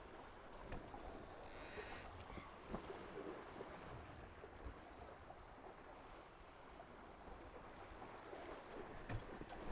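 Faint steady rush of water past a Tornado catamaran's hulls under sail, with short hissing bursts of spray in the first few seconds and a couple of sharp knocks, one near the end.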